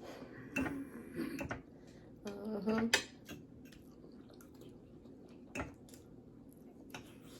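Cutlery clinking and scraping against plates during a meal, in several separate sharp clinks; the loudest comes about three seconds in.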